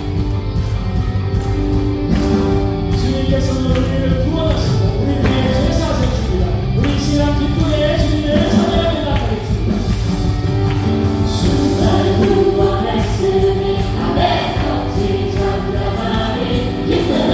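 Live contemporary Christian worship music: a praise band of keyboards, synthesizer, electric guitar, bass and drums playing while vocalists and the congregation sing together, with a steady drum beat.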